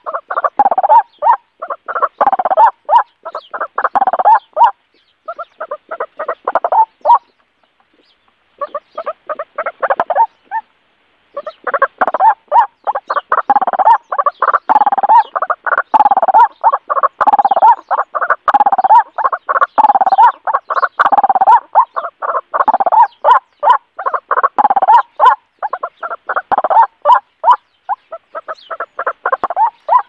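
Bird calls repeated in rapid, choppy pulses, breaking off briefly about five, eight and eleven seconds in.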